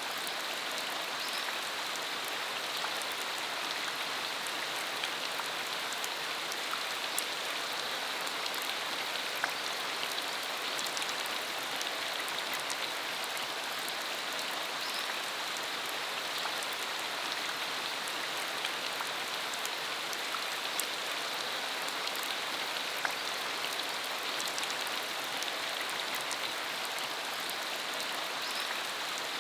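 Steady rain falling on a country dirt road, a constant hiss with many small drop ticks scattered through it.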